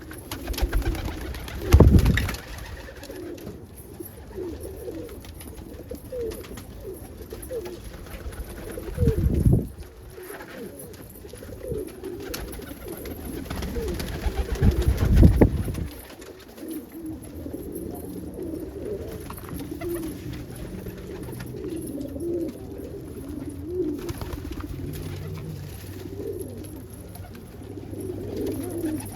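Several domestic pigeons cooing over one another in a loft, giving many short low coos. Three loud low bursts stand out, about 2, 9 and 15 seconds in.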